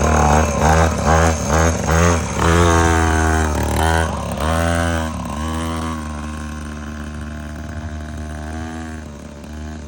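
Mini motocross bike's small engine revving in about five quick throttle blips, then several longer revs. It then runs at a steadier pitch, growing fainter over the last few seconds, with one more rev near the end.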